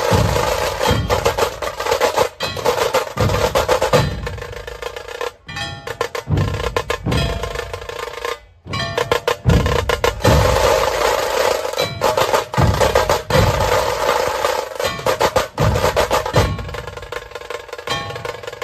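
Procession band music: fast, repeated drum beats with a snare-like roll under a held melodic line. The music dips briefly twice near the middle.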